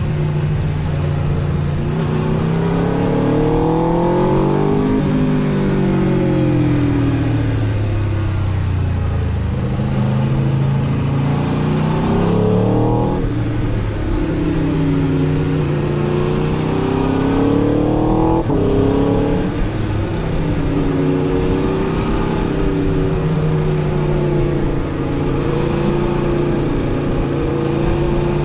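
Aprilia RSV4 RR's V4 engine on stock exhaust, heard from the bike while riding. The engine note rises under acceleration and drops away three times, about five, thirteen and eighteen seconds in, then holds a roughly steady cruising note with small rises and dips, over a steady rush of noise.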